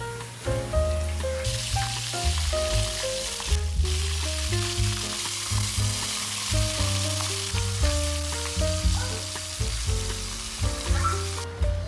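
Flour-coated flower crabs deep-frying in a pan of hot oil, a steady sizzle that starts about a second and a half in, breaks off for a moment, and cuts off just before the end. Background music with a bass line plays throughout.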